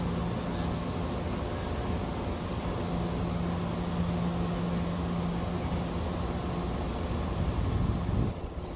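Steady low hum of an idling vehicle engine over even background noise.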